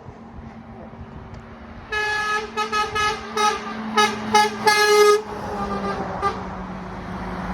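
Truck air horn sounding a string of blasts: one longer blast, a run of short toots, and a longer final blast, all on one pitch, over a passing lorry's engine.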